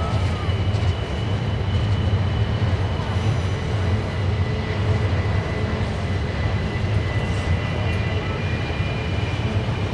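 Double-stack intermodal well cars rolling slowly past on steel rails, a steady low rumble of wheels and cars. A thin, steady high squeal runs over it, typical of wheel flanges on a tight curve.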